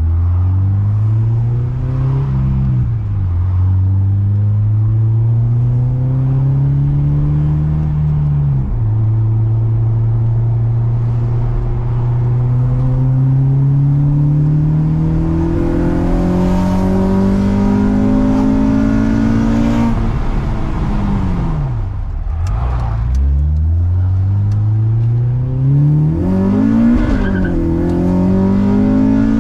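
2005 Acura TSX 2.4-litre four-cylinder with a PLM header, no catalytic converter and a 3-inch straight exhaust with dual Magnaflow mufflers, accelerating hard. The engine note rises through the gears and drops at upshifts about 3 and 9 seconds in. It then climbs slowly in a long pull, falls away as the throttle is lifted around 20 seconds, and climbs again with another shift near the end.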